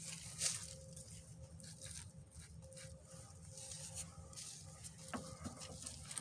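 Quiet outdoor background: a faint steady low hum and a thin faint tone, with a few soft clicks.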